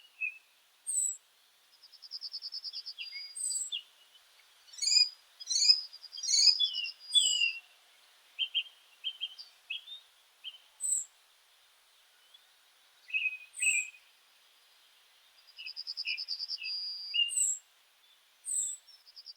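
Meadow songbirds singing and calling: short high chirps and falling notes with quiet gaps between them, and a rapid buzzy trill about two seconds in and again near the end.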